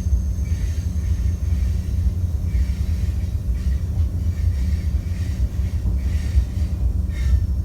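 Steady low rumble of a moving passenger train, heard from aboard one of its cars.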